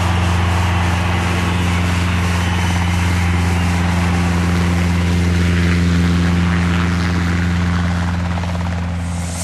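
Fiat Bravo's engine idling, heard close to its aftermarket exhaust: a steady, unchanging low drone.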